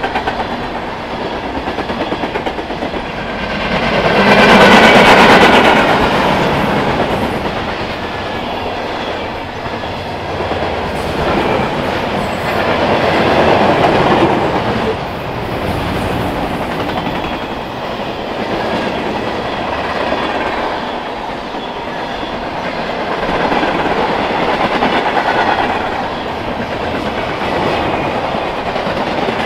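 Freight train cars rolling past, wheels clattering over the rails in a continuous run that swells and eases several times, loudest about five seconds in.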